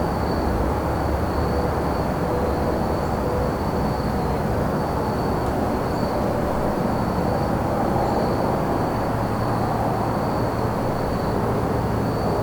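Crickets chirping in a steady high trill over a continuous low rumble of distant traffic.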